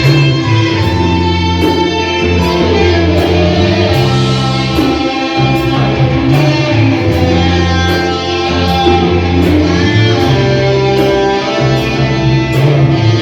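Live rock band playing an instrumental passage: electric guitar over bass and drums, with a steady hi-hat beat.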